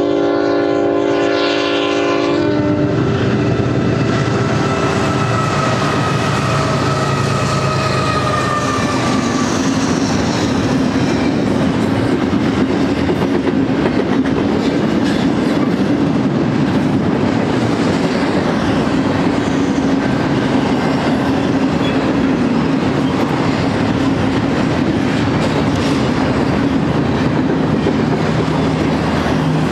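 BNSF double-stack intermodal train led by GE diesel locomotives: the horn chord sounds at the grade crossing and cuts off about two and a half seconds in. The locomotives go by and a long string of container well cars follows, with steady clatter of wheels on the rails.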